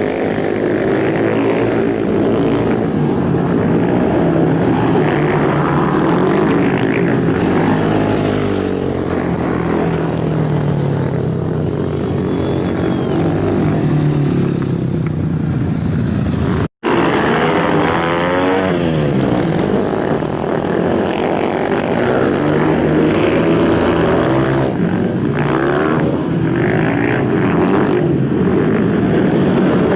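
Several racing motorcycle engines at high revs, their pitch rising and falling through gear changes and passes. The sound cuts out completely for a moment about two-thirds of the way through, then picks up again.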